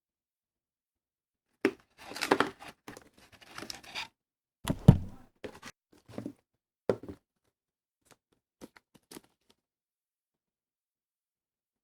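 Packaging being opened by hand: plastic wrapping tearing and crinkling for about two seconds, then a loud thud and a few clicks and light knocks as items are handled.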